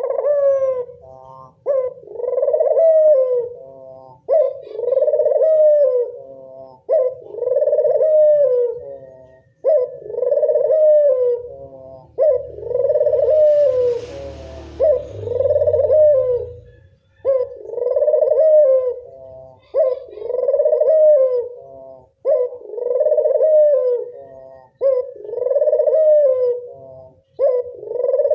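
A puter dove (domesticated collared dove) cooing over and over, about one coo every two seconds, as a lure call. The cooing stops for a few seconds about midway, while a low rumble and hiss are heard.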